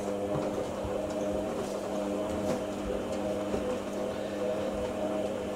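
Washing machine on its final rinse fill: a steady rush of water with a steady hum, as water is drawn through the fabric conditioner compartment.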